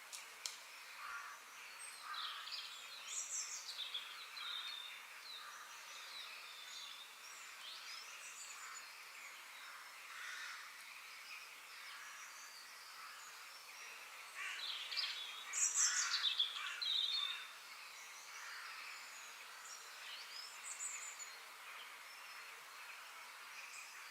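Several wild birds chirping and singing over a steady background hiss of outdoor ambience, with a louder flurry of quick, sweeping calls about two-thirds of the way through.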